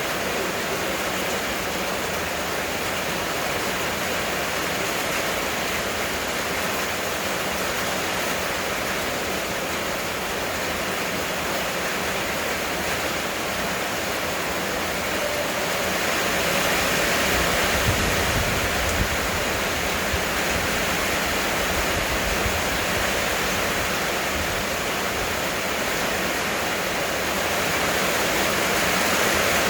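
Heavy rain pouring down, a dense steady hiss that swells a little louder about halfway through.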